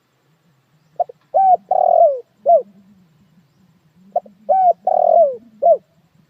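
A dove cooing two matching phrases a few seconds apart. Each phrase is a short note, a rising-and-falling coo, a longer rolling coo that slides down, and a short closing note.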